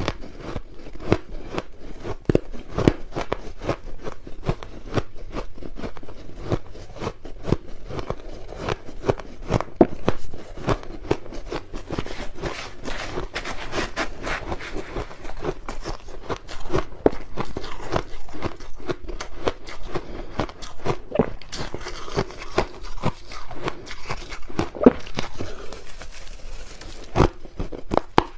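Crushed ice being bitten and chewed close to the microphone: a continuous run of sharp, crisp crunches and crackles.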